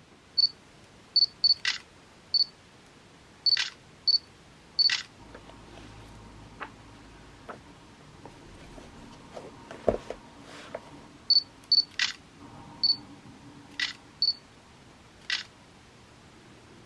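Digital camera taking a series of photos: short high autofocus-confirm beeps, each followed by a sharp shutter click, about six shots in two bursts. A single dull thump comes about ten seconds in.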